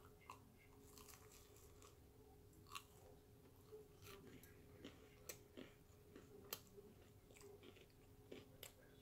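Faint chewing and biting into a deep-fried cinnamon-filled pastry bite, with scattered small crunches and clicks.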